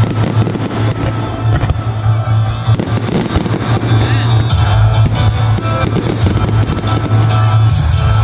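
Fireworks banging and crackling over loud rock music.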